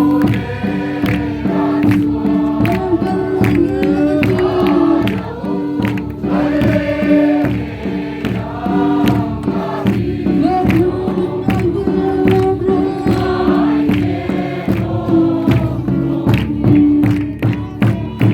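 Choir singing a gospel hymn over a steady accompaniment with a regular beat and a held low keyboard note.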